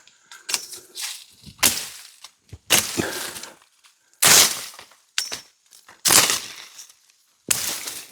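Leafy branches and brush rustling and crackling in about seven irregular bursts as a bag is worked onto a forked branch. The loudest burst comes about four seconds in.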